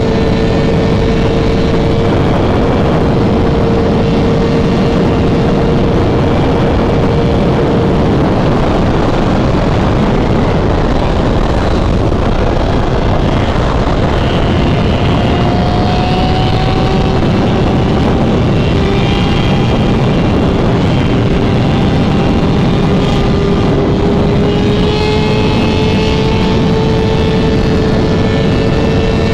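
Motorcycle engine running at a steady cruise with heavy wind noise on the microphone; the engine's drone sags and climbs a little in pitch as the throttle varies.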